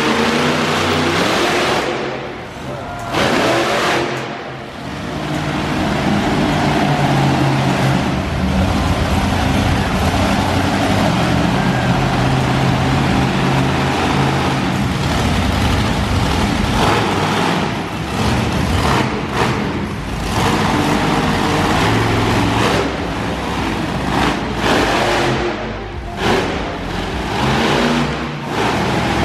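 Monster truck engines running loud and revving hard across an arena, the pitch rising and falling with the throttle and dropping away briefly several times.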